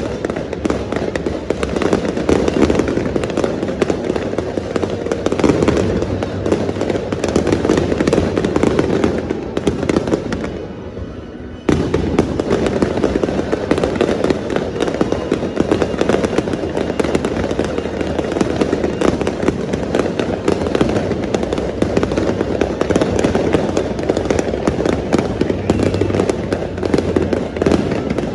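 Fireworks bursting and crackling in a dense, continuous barrage. It thins briefly about ten seconds in, then comes back abruptly at full strength.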